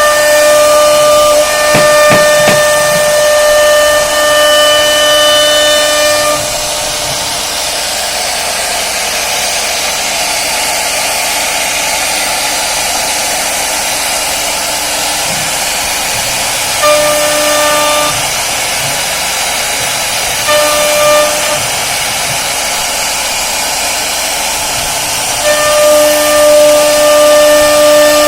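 CNC wood-carving router running: a steady high whine over a hiss of cutting. The whine drops away about six seconds in, leaving the hiss, returns briefly twice, and comes back near the end.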